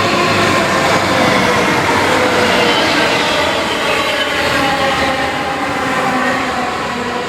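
Train running through the station close by: a loud, steady noise of wheels on rails, with whining tones that slowly fall in pitch.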